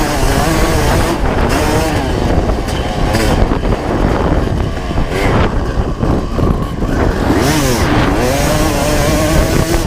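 1995 Honda CR250 two-stroke single-cylinder engine being ridden hard. Its pitch rises and falls repeatedly as the throttle is worked, with a sharp drop and climb about seven and a half seconds in.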